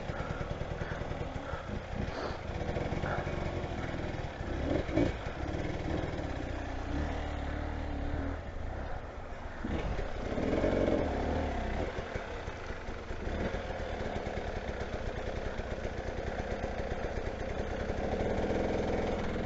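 Motorcycle engine running at idle, with a few brief rises in revs.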